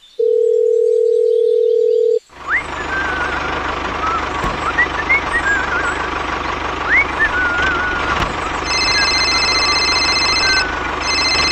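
A steady phone dial tone for about two seconds, then a tractor engine running steadily with birds chirping over it. Near the end, a mobile phone starts ringing with a high electronic ringtone that breaks off once briefly.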